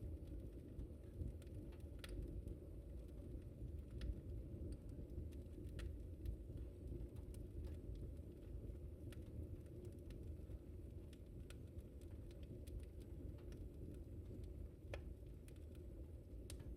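Wood fire crackling in a fireplace: a steady low rumble with scattered sharp pops and crackles, irregular, roughly one or two a second.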